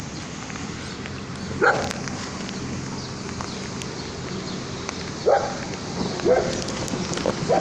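A dog barking, four short single barks spaced a second or more apart.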